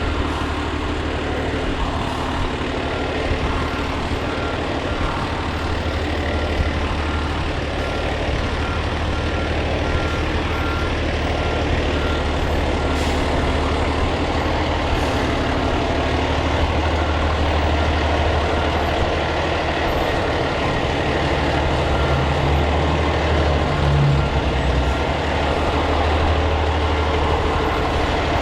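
Fire truck engine running steadily, with a repeated high beep sounding at even intervals through the first half.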